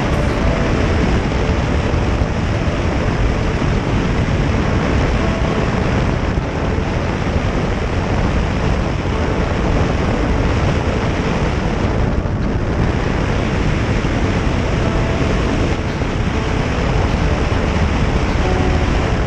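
Steady wind rush over the microphone of a motorcycle riding at speed, with a faint engine drone underneath. The rush eases briefly about twelve seconds in.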